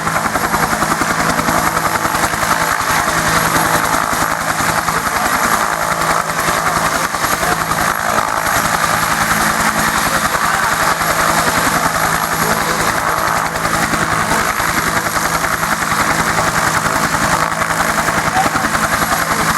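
UH-1 Huey helicopter running, loud and steady: the turbine engine and the regular beat of its two-bladed main rotor.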